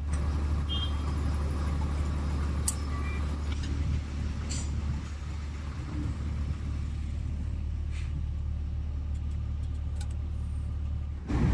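Kalka–Shimla rail motor car running: a steady low engine drone with a few faint clicks.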